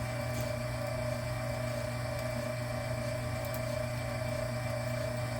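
Small electric motor of an electric wire-stripping machine running with a steady hum.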